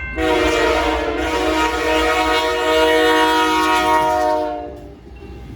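Locomotive air horn on a GE AC4400CWM freight locomotive sounding one long, steady blast, fading away near the end, over the low rumble of the train.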